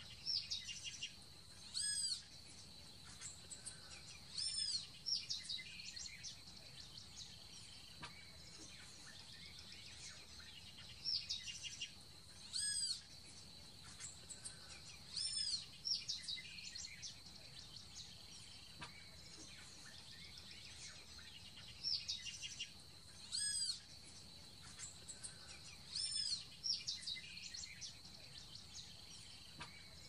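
A bird singing short phrases of high, arching whistled notes in clusters every few seconds, over a steady high-pitched drone.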